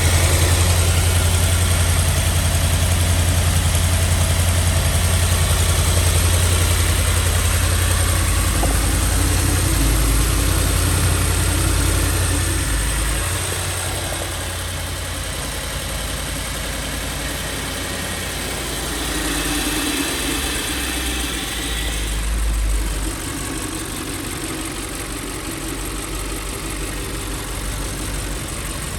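2013 Audi S7's 4.0-litre twin-turbo V8 idling after a cold start. Its low note and loudness drop a little under halfway through and settle lower, with a brief swell and fall again about three quarters of the way in.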